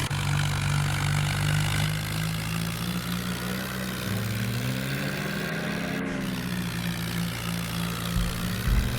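Swaraj tractor's diesel engine running steadily, its pitch dipping and shifting a little around the middle. A couple of brief low bumps come near the end.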